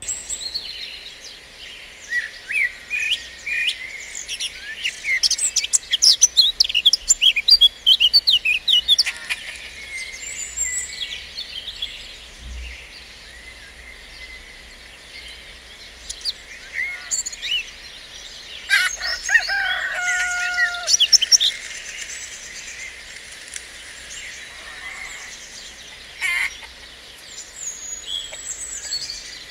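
Small songbirds chirping and singing, with a dense run of quick chirps and trills in the first third and another cluster of calls about two-thirds of the way through.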